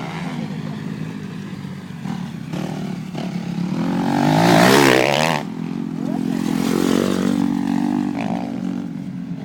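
Motocross bikes on the track, engines revving. One bike's engine climbs in pitch and gets loud about halfway through, then drops away suddenly, with another revving up again a couple of seconds later.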